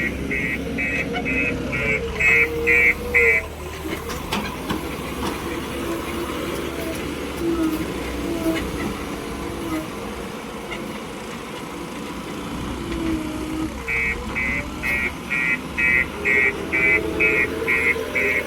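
Rapid electronic beeping, about three beeps a second, over a running vehicle engine; the beeping stops about three seconds in and starts again about fourteen seconds in.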